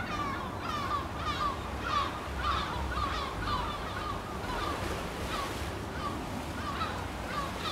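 A flock of birds calling over and over, one short call every half second or so, over a low steady rumble.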